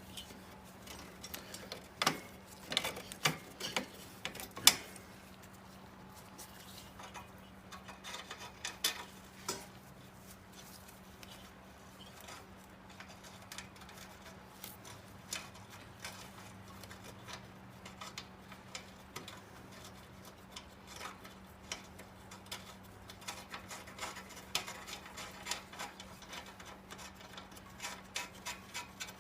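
Metal parts of a motorcycle exhaust being handled and fitted: scattered clicks and knocks, the sharpest few in the first five seconds, then runs of quick light ticking, over a faint steady hum.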